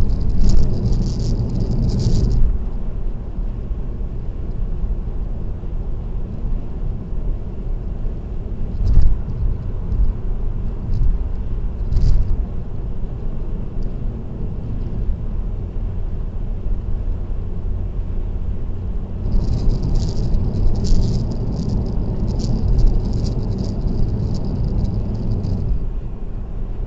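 Car driving at expressway speed: a steady low road-and-engine rumble, with a high-pitched rattle in bursts at the start and again for several seconds from about two-thirds of the way in.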